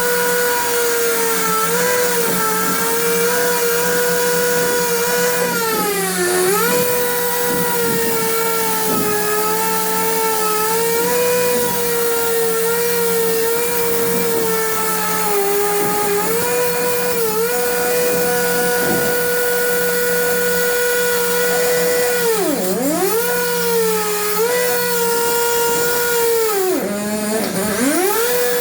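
An electric power tool running continuously with a steady whine. Its pitch sags sharply a few times, once about six seconds in and twice near the end, as the tool bogs under load while cutting, then recovers.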